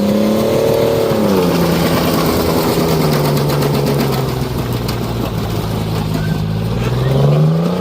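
Junkyard pickup truck engine revving hard and held at high revs. The pitch drops a step about a second and a half in, holds steady, then sags and climbs again near the end.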